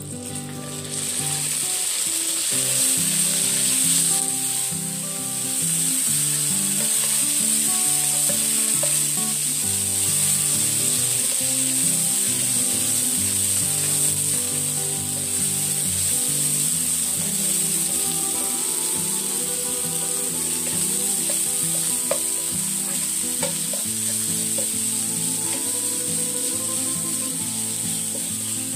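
Minced pork sizzling in hot oil with fried chopped garlic in a pan, stirred with a wooden spatula. The sizzle rises loud about a second in as the pork goes into the oil, then holds steady.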